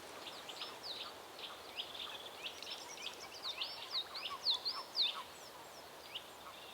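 Faint chirping of small birds: a quick run of short, high, hooked notes, densest in the middle, over a soft outdoor hiss.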